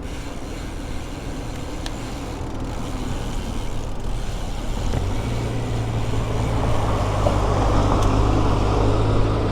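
Road traffic: a motor vehicle's engine hum that strengthens about halfway through, with road noise building over it as the traffic comes closer.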